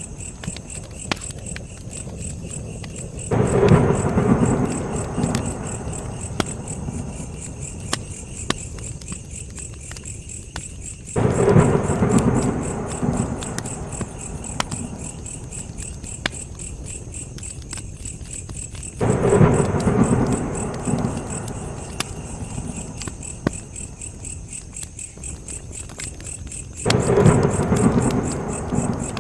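Campfire crackling with crickets chirping in a steady, high, pulsing trill. Four times, about eight seconds apart, a low rumble swells up suddenly and fades over a few seconds.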